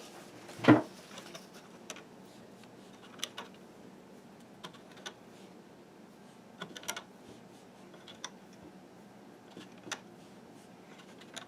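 Rubber bands being stretched onto and snapping against the pegs of a plastic Fun Loom: scattered small, sharp clicks and taps, with one louder knock about a second in.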